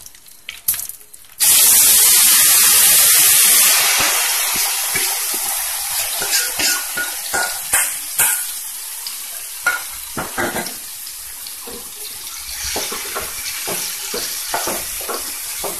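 Salted, chilli-coated raw mango pieces tipped into hot oil in an aluminium kadai: a sudden loud sizzle about a second and a half in, strongest for a couple of seconds, then easing into steady frying. A wooden spatula scrapes and stirs through it.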